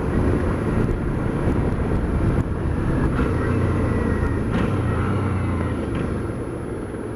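Suzuki V-Strom 650's V-twin engine running at road speed, with wind rushing over the helmet microphone; the level drops briefly about two and a half seconds in.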